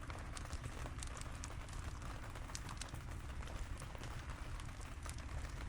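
Steady rain pattering in many small scattered drops, over a constant low rumble of strong wind.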